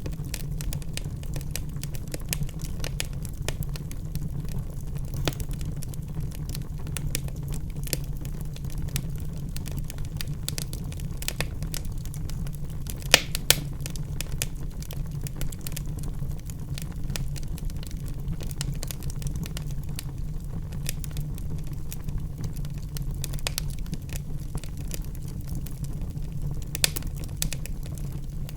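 Wood fire in a fireplace crackling, with a steady low rumble under many small irregular snaps and a couple of sharper pops about halfway through and near the end.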